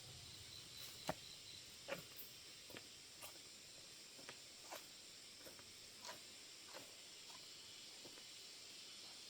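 Faint, irregular light clicks and taps, about one a second, over a steady background hiss.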